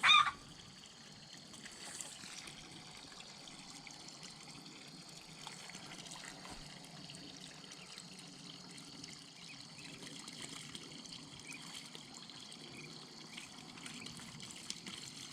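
Water running and trickling into a small duck pond, a steady splashing that aerates the pond water. A brief, sharp, louder sound comes right at the start.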